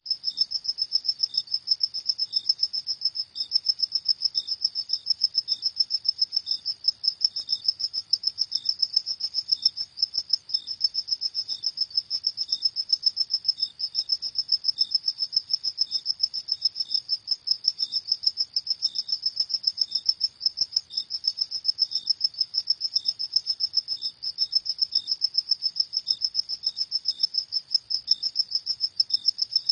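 Crickets chirping at night: a dense, fast run of high-pitched pulses with no break, and a second, softer and slower chirping just below it in pitch.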